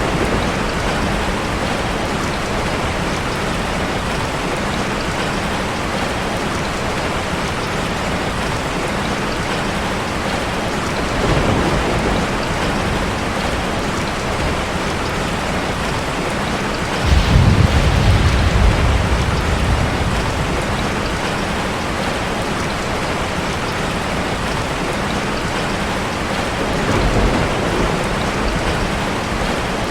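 Heavy rain falling steadily on a car, with thunder rumbling three times: faintly about eleven seconds in, loudest about seventeen seconds in for a couple of seconds, and again near the end.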